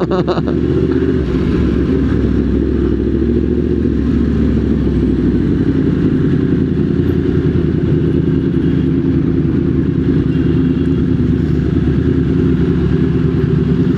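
Motorcycle engine running steadily, with no revving.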